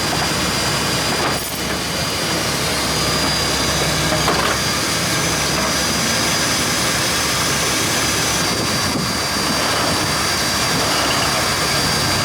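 Vehicle engine running steadily, with a thin constant high-pitched whine over it.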